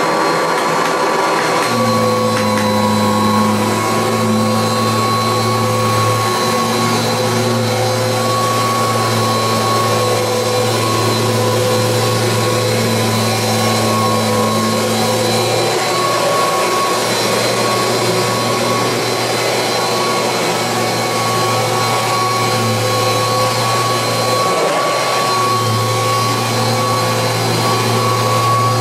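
1986 Kirby Heritage 2 upright vacuum cleaner running steadily with a high motor whine. From about two seconds in, a lower hum joins it and drops out briefly a few times as the cleaner is worked over the floor.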